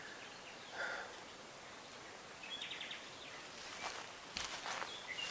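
Footsteps crunching and rustling through dry undergrowth, starting near the end, after a couple of short bird calls over quiet outdoor ambience.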